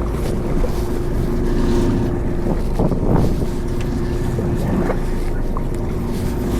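A fishing boat's engine running steadily with a constant low hum, with wind buffeting the microphone.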